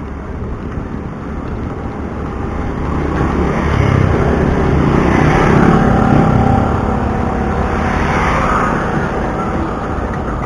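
A motor vehicle passing close by on the road, its engine and tyre noise swelling to loudest about five to six seconds in and then fading.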